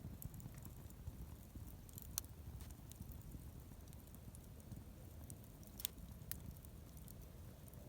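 Wood bonfire crackling: scattered small ticks and a few sharp pops over a low steady rumble. The loudest pops come about two seconds in and twice around six seconds in.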